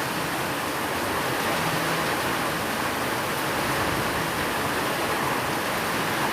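Steady rain falling, a dense, even hiss with no thunder, which may be blended with added white noise.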